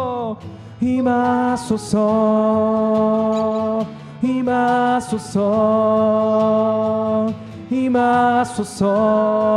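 Slow worship song sung by a group, with long held notes and a steady low accompaniment underneath.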